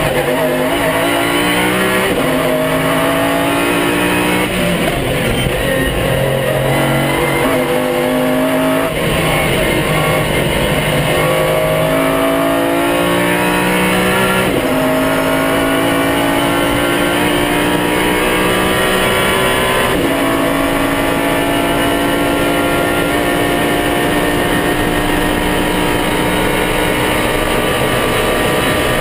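Pagani Zonda R's V12 engine running hard at speed, its pitch sliding up and down with the revs. It is broken several times by sudden jumps in pitch at gear changes.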